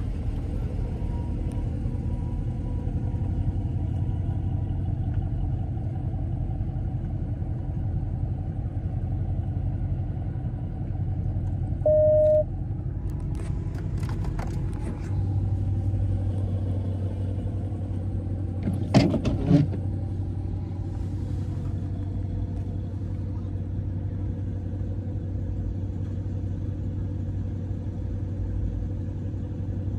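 Dodge Scat Pack's V8 engine and road noise, a steady low drone while cruising. A short electronic beep sounds about twelve seconds in, and a few faint clicks come a little later.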